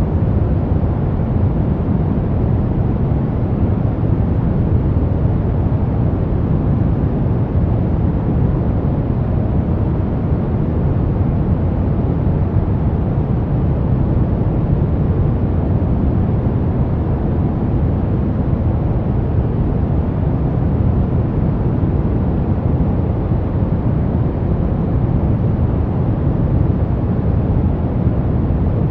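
Brown noise: a steady, even rumbling hiss, strongest in the bass and falling away toward the treble, with no changes.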